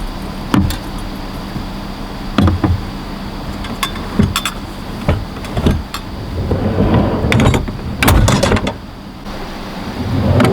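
A series of sharp knocks and clunks, about eight scattered hits with a louder cluster past the middle, over a steady low hum.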